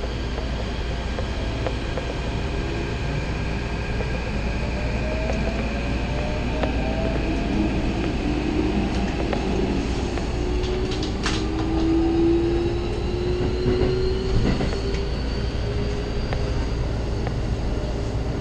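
Electric commuter train pulling out and accelerating: the traction motors whine in several tones that rise steadily in pitch over a steady rumble of the wheels on the track. A single sharp click comes partway through.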